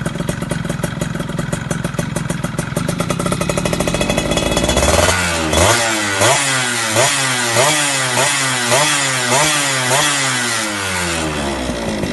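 Two-stroke Yamaha motorcycle engine breathing through a Creampie stainless aftermarket exhaust. It idles with a fast, even crackle, then from about halfway it is blipped over and over, around ten quick revs in a row, each rising and dropping back.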